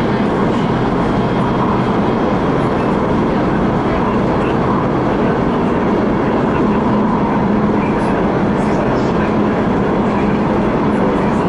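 CRRC Changchun-built MTR West Rail Line electric train running between stations: a steady rumble of wheels on track with a constant hum.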